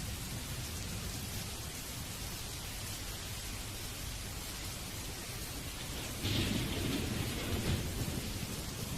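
Steady rain falling, with a sudden thunderclap and low rumble breaking in about six seconds in.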